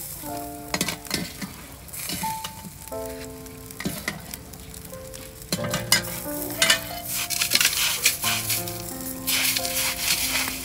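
Octopus cooking in a steaming wok of red broth, with a steady hissing sizzle, under background music with a melody of held notes. Near the end there is a louder crunching rustle as a hand digs into crushed ice.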